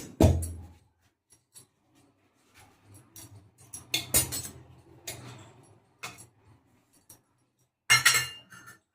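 Metal kitchen utensils knocking and clinking while rotis are handled: a few sharp strikes at the start, a cluster about four seconds in, and another near the end, some ringing briefly, with quiet stretches between.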